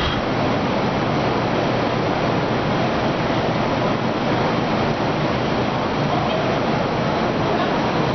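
Steady, loud rushing noise with no rhythm or pitch, holding an even level throughout.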